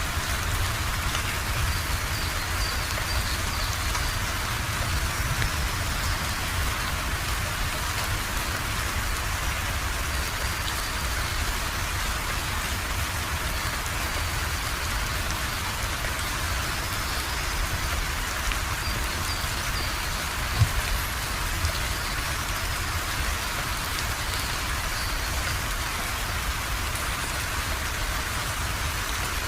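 Steady rain falling on a surface, an even hiss with a low rumble beneath it. A single brief thump stands out about two-thirds of the way through.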